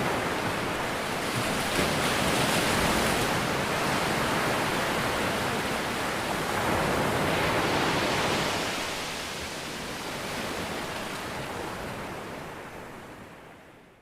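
Ocean surf: a steady rush of waves breaking and washing in, swelling twice, then fading out near the end.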